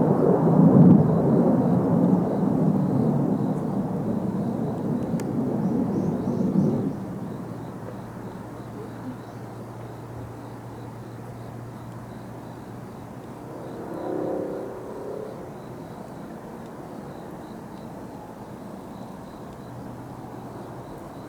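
Jet aircraft engine noise, a low rumble that dies away fairly suddenly about seven seconds in, leaving a quieter steady background with a faint hum.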